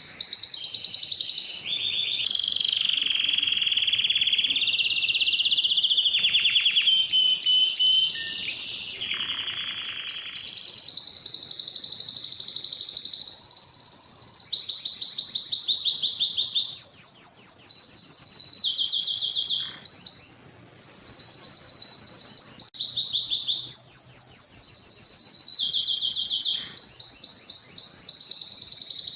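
Canary singing a long song of rapid trills, each phrase held a few seconds before it jumps to a higher or lower pitch, with a brief break about twenty seconds in.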